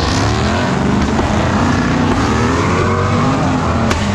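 A car engine revving hard, its pitch sweeping up and down over and over. There is a single sharp crack near the end.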